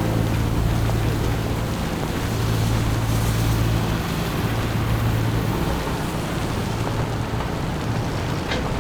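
City street traffic: a vehicle engine running with a steady low hum that swells and fades, over a constant hiss of traffic and slush.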